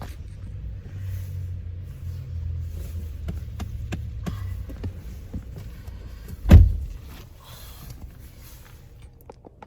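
Car engine idling with a low rumble, with scattered clicks and knocks. About six and a half seconds in comes one loud, heavy thump, after which the rumble is quieter.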